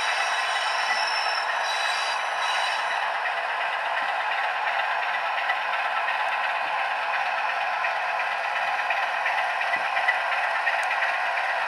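A 00 gauge model diesel locomotive's DCC sound decoder playing a steady diesel engine sound through its small speaker, thin and without bass. Faint high tones fade out about three seconds in, and light clicks are scattered through it.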